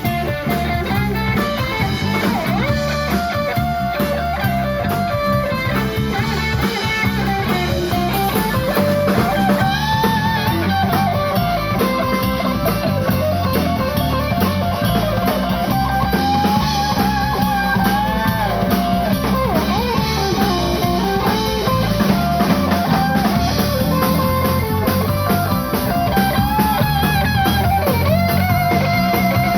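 A live band playing: an electric guitar lead with bending, sliding notes over bass and a steady drum-kit beat.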